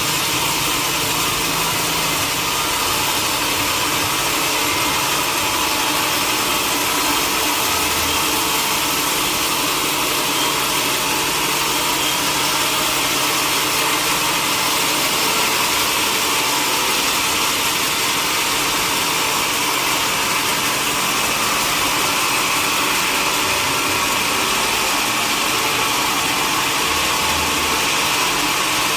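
Sawmill machinery running steadily, an engine-like drone with a strong hiss over it.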